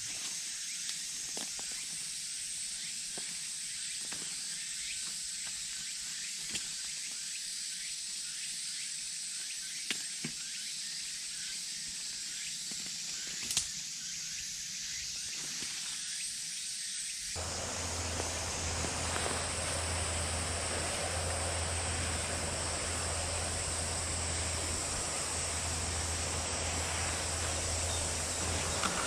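Forest ambience dominated by a steady high-pitched insect drone, with a few faint clicks and taps. About two-thirds of the way through, the sound changes abruptly to a fuller rushing noise with a steady low hum underneath, while the insect drone carries on.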